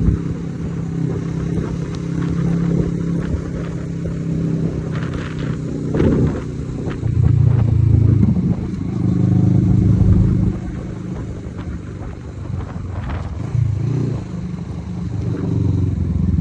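Kawasaki Z650RS parallel-twin engine running at low revs through an Akrapovic aftermarket exhaust, the note swelling louder several times in the middle with the throttle.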